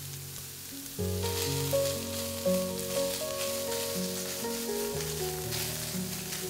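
Ham strips and chopped onion sizzling in a frying pan while a wooden spatula stirs them, the sizzle starting about a second in. Soft background music with held notes plays underneath.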